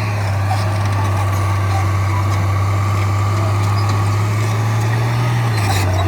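Heavy-equipment diesel engine running steadily, its pitch rising briefly about five seconds in before settling back.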